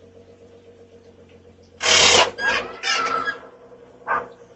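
A vehicle engine running with a fast, even pulse, then about two seconds in a loud noisy burst followed by more loud bursts over the next second and a half, and one short burst near the end.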